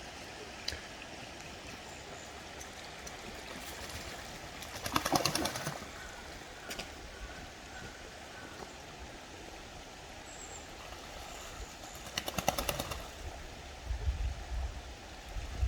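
Eastern spot-billed duck bathing in a stream, beating its wings on the water in two rapid splashing bursts, about five seconds in and again about twelve seconds in, over steady stream noise. A low rumble comes in near the end.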